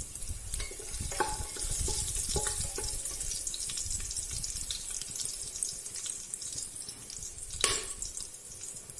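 Curry leaves and whole spices sizzling and crackling in hot oil in a pan, with a few light utensil knocks about a second in and a sharper click near the end.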